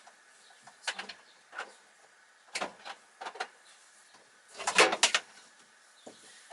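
Handling noise on a workbench: scattered clicks, taps and clatters of hard objects being picked up and set down, with the loudest cluster of knocks about five seconds in.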